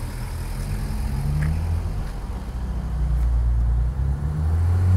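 Nissan 300ZX's V6 engine running at low speed and being revved, its pitch rising in short glides and getting louder near the end as the car moves off.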